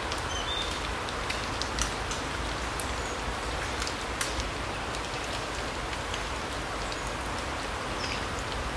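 Larch forest ambience: a steady hiss with a scattered patter of drops, and a couple of brief high bird chirps, one near the start and one near the end.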